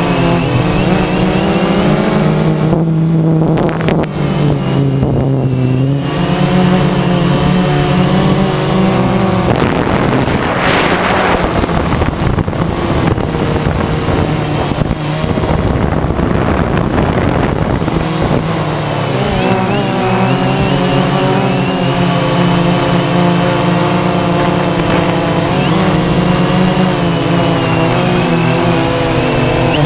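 DJI Phantom 2 quadcopter's motors and propellers buzzing in flight, the pitch wavering up and down as it manoeuvres, with a brief rush of noise about ten seconds in.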